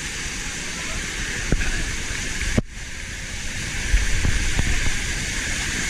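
Steady rush of a waterfall, with wind buffeting the microphone. The sound breaks off for a moment about two and a half seconds in.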